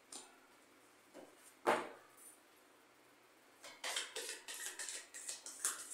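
Tarot cards being handled: a few separate taps or flicks, then, from a little past halfway, a quick irregular run of crisp card-shuffling strokes.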